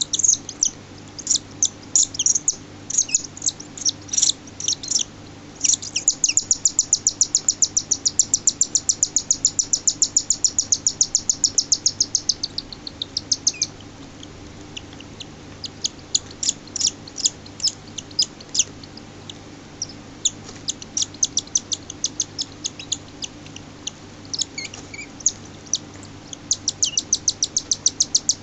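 Cockatiel chick's food-begging cheeps while a parent feeds it: rapid, high-pitched chirps at about six a second, coming in runs of several seconds with short breaks in between.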